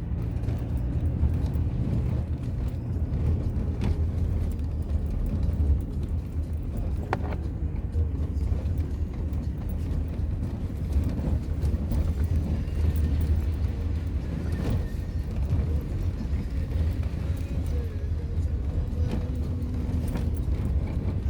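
A vehicle driving, with a steady low rumble of engine and road noise and scattered light knocks.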